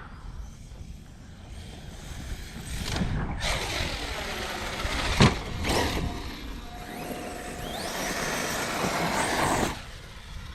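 Arrma Kraton 6S RC truck running on its Hobbystar 4092 1730kv brushless motor: the motor's whine rises and falls with the throttle over the sound of the tyres. There is a sharp knock about five seconds in, and the sound drops away abruptly near the end.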